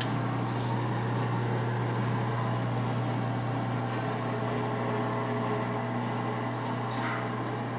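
Electrolux Top 8 top-loading washing machine running in its rinse cycle: a steady low hum with a rushing water noise over it.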